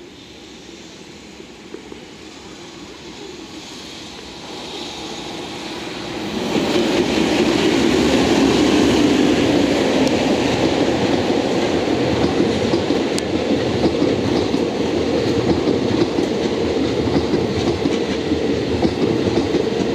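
An EF210 electric freight locomotive hauling a rake of unpowered Sotetsu 21000-series commuter cars approaches and passes close by. The rumble swells over the first six seconds, then the wheels of the passing cars run loud and steady along the rails.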